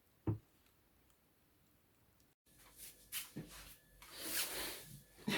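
A single short soft thump, then after a sudden cut, a few light clicks and a brief rustling.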